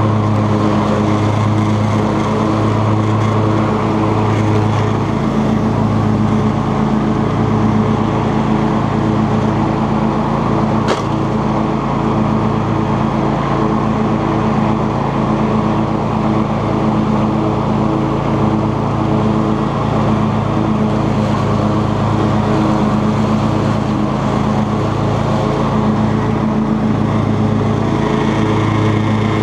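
Cub Cadet XT2 lawn tractor's engine running steadily under load with the 42-inch mower deck cutting long grass, with a single light click about eleven seconds in.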